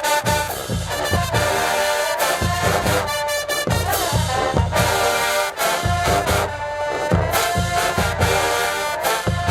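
HBCU marching band playing: a loud brass melody of trombones and trumpets over a steady beat of bass drums and cymbals.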